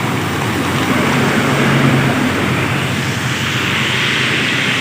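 Floodwater rushing under a bridge: a steady, loud rushing noise, with a low vehicle engine hum swelling in the middle.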